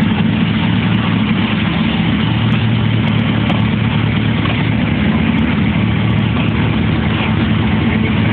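1985 Pontiac Firebird Trans Am's 305 small-block V8 idling steadily in gear while the car is slowly backed up.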